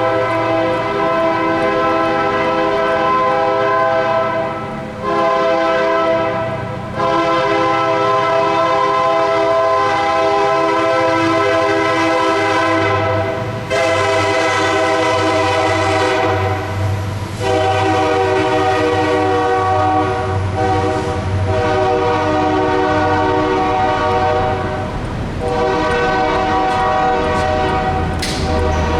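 Locomotive air horn sounding several long blasts with short breaks between them, a steady multi-note chord, over a low rumble that comes up about halfway through.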